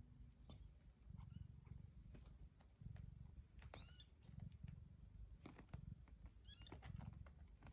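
Faint cat purring, with two brief high-pitched kitten squeaks about four and six and a half seconds in, and a few light clicks.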